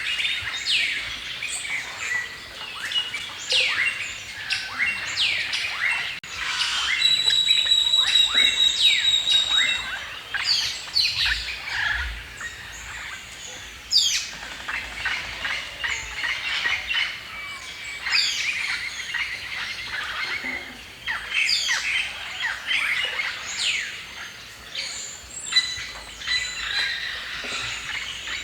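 Several songbirds chirping and singing at once, a dense chorus of quick whistled notes and trills, with one bird holding a steady high whistle for a few seconds about a third of the way in.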